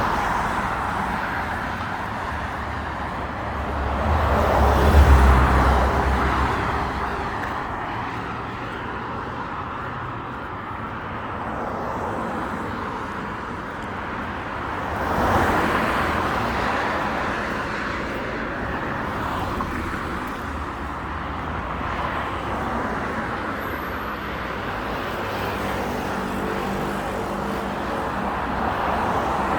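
City road traffic: a steady wash of passing cars, with one vehicle going by closer and louder with a low rumble about five seconds in, and another passing about fifteen seconds in.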